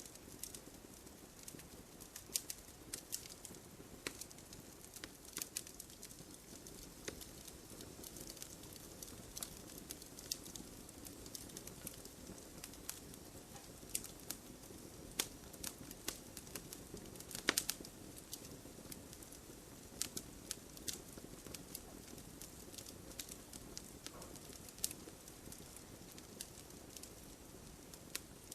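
Firewood crackling in an open wood fire: irregular sharp pops and snaps, a few louder than the rest, over a soft steady rush from the flames.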